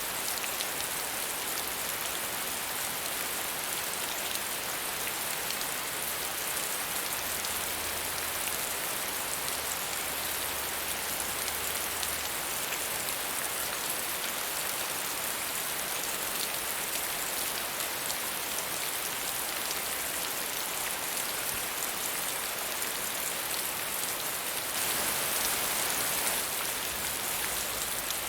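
Steady medium rainfall, a dense even hiss of countless drops, swelling slightly louder for a couple of seconds near the end.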